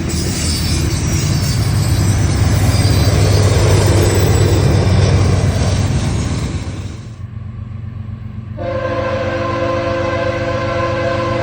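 Freight train rolling past, its steel wheels rumbling and rattling on the rails. After an abrupt cut, a diesel locomotive rumbles low, and from about nine seconds in its air horn sounds a long, steady chord.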